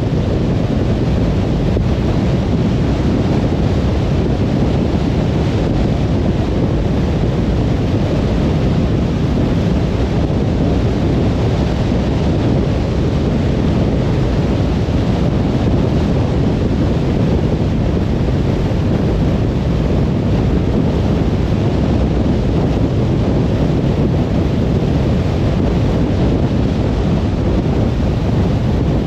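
Car cruising on a motorway: a steady, even rumble of tyre and road noise that does not change.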